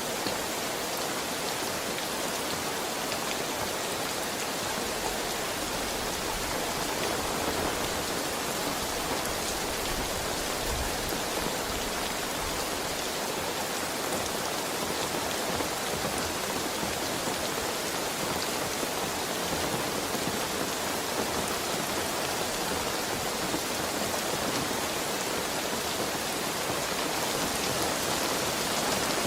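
Heavy rain falling steadily and pattering on surfaces, an even unbroken hiss.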